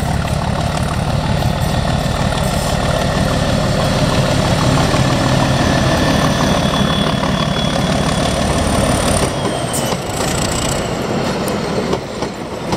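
Heritage diesel-electric locomotive passing close at low speed with its engine rumbling heavily. About nine seconds in the engine rumble drops away as the carriages roll past, with wheel clatter and faint wheel squeal.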